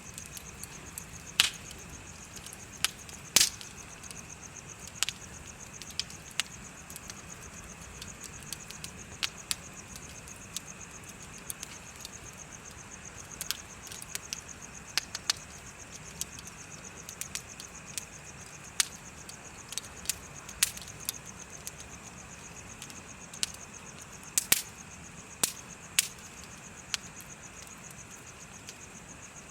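Bonfire crackling, with irregular sharp pops of burning wood, over a steady high-pitched chirping of insects.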